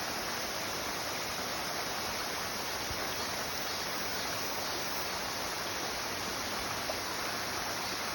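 Mountain stream rushing steadily over rocks in a forest valley, an even, unbroken water noise.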